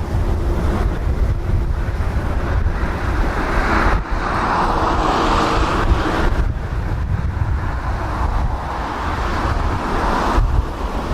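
Gusty wind buffeting the microphone with a jet airliner's engine noise, the engine noise swelling and loudest about four to six and a half seconds in.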